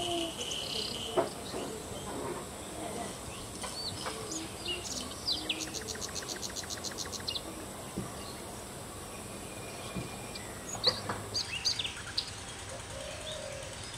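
Birds chirping and calling in short notes, with a rapid even trill of about six notes a second a few seconds in. A few sharp knocks are heard among the calls.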